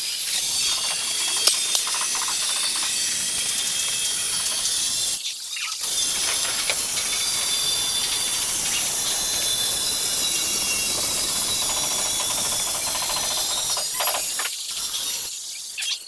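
Angle grinder cutting ceramic tile: a steady, high, hissing grind with a brief dip about five seconds in, stopping near the end.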